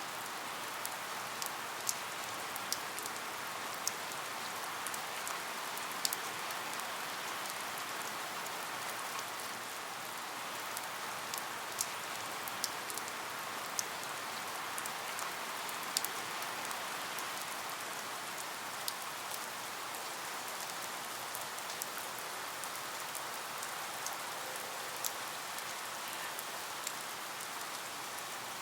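Steady rain falling on a surface, a constant hiss dotted with sharp ticks of single drops.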